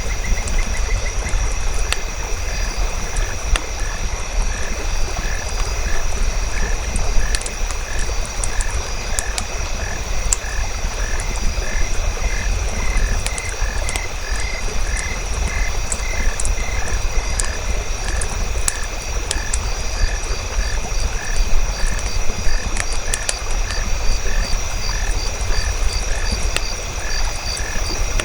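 Night nature ambience: frogs calling in a steady rhythm of about one and a half calls a second over a continuous high insect trill. Scattered sharp crackles of a wood fire and a low rumble sit underneath.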